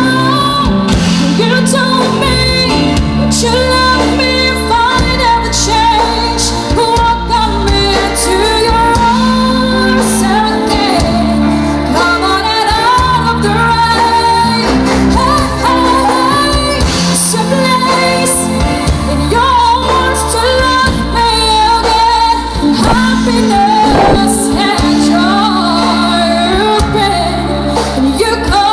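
A pop ballad with a female lead voice singing over a full band with a steady bass line.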